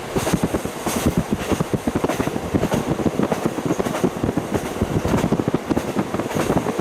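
KiHa 40 diesel railcar running along the line, heard through a fully open window: an uneven, pulsing rumble of engine and wheels on rail, with wind rushing past.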